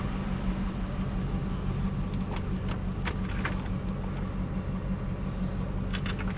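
A motor vehicle's engine running steadily, with a few light clicks and taps over it about two to three seconds in and again near the end.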